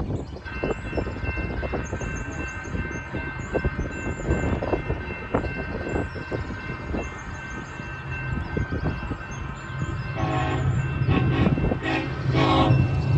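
Crossing signal bell ringing steadily as the crossing activates, then the lead diesel locomotive's horn sounding several blasts from about ten seconds in, over a growing low locomotive rumble as the train nears the crossing.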